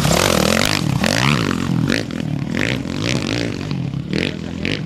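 Off-road race motorcycle engine revving up and down repeatedly, with several short bursts of scraping and clattering dirt and stones.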